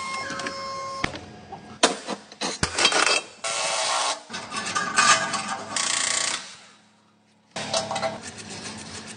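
Metal tools and parts clanking and scraping in a series of separate bursts, with a brief pause after the middle, during an engine mount replacement.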